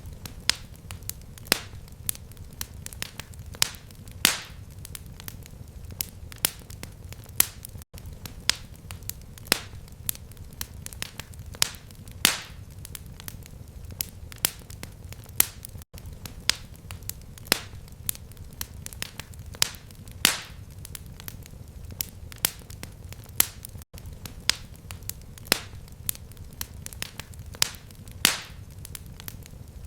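Fireplace fire crackling: frequent sharp pops and snaps at irregular intervals over a steady low rumble, with a brief dropout about every eight seconds.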